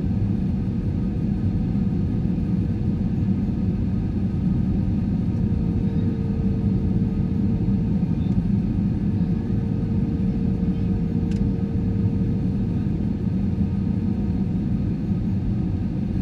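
Steady cabin rumble of an Airbus A320-214 in flight: the airflow and its CFM56 engines give a deep, even roar with a faint steady hum that grows a little stronger about five seconds in.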